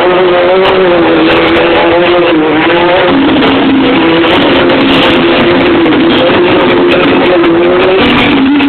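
Motorcycle engine revved and held at high revs, its pitch wavering, then stepping down about three seconds in and again near the end. Very loud and distorted.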